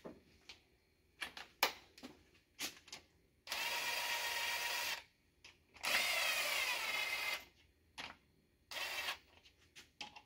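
Cordless power tool spinning bolts in, in two runs of about a second and a half and a shorter third run near the end, with clicks and clatter of parts between.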